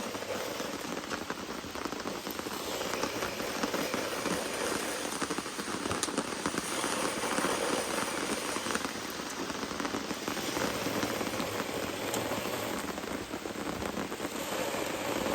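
Rain falling steadily: a dense hiss of rain with many individual drops ticking on nearby surfaces.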